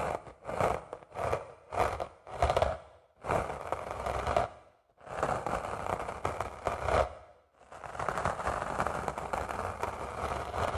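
Dry sponge scraped by hand: about six short quick strokes, then three longer continuous scrapes.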